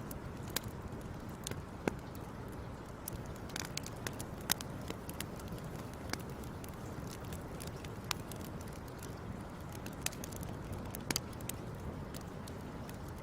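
Wood fire crackling: irregular sharp pops and snaps over a steady low rumble, with a few louder pops, one about four and a half seconds in and a pair about eleven seconds in.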